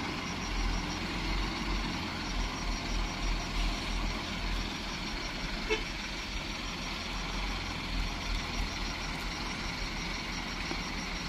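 Mitsubishi Fuso heavy-duty dump truck's diesel engine running with a steady low rumble.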